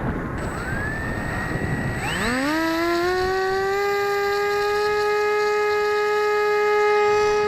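Electric RC plane's motor and propeller spooling up about two seconds in to a steady high whine, held at high throttle. Wind buffets the microphone before it.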